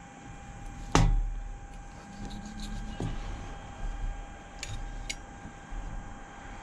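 Kitchen knife slicing smoked pork tenderloin on a plastic cutting board, the blade knocking on the board: one sharp knock about a second in, a lighter one about three seconds in, and two faint clicks near the end. A steady faint hum runs underneath.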